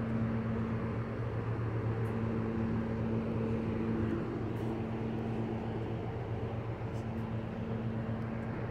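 A diesel passenger train standing at the platform, idling with a steady, even hum.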